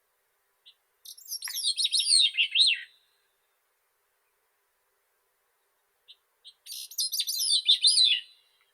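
Grey-cheeked thrush singing two songs about four seconds apart. Each is a high, thin phrase of quick notes that falls in pitch over about two seconds, with a short soft note or two just before it.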